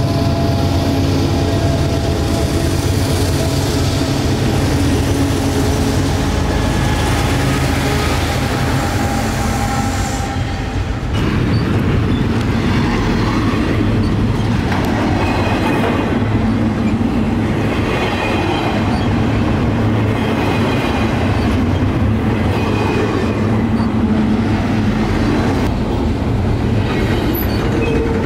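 Diesel freight locomotive passing close by, its engine drone holding steady low tones; about eleven seconds in it gives way to the rumble and clatter of double-stack container cars rolling past, with faint high wheel squeal at times.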